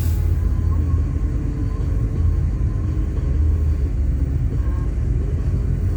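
Steady low rumble, with a short sharp click right at the start.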